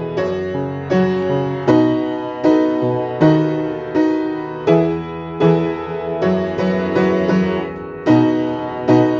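Solo piano playing a slow ballad, chords struck about once every three-quarters of a second and left to ring and fade.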